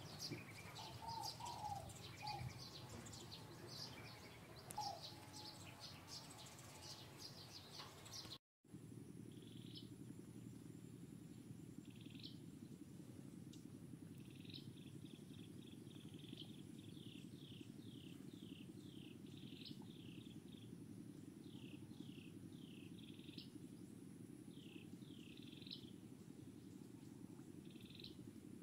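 Faint birds chirping in short high notes. After a brief cut, a steady low hum sets in, with runs of quick, high, falling chirps over it.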